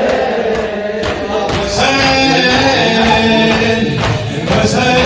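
A male voice singing a Shia latmiyya lament, with rhythmic beats about twice a second.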